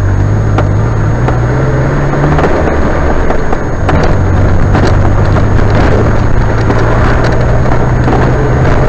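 Motor vehicle engine running steadily under road noise while driving, with a brief dip in level about three and a half seconds in.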